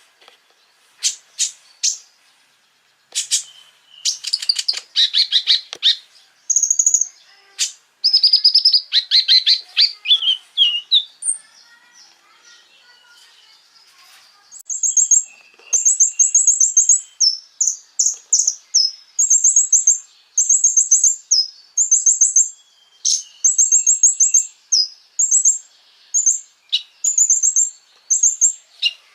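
A konin, a small songbird, singing: rapid buzzy trills and sharp chips in the first half, then short, high trilled phrases repeated about once a second.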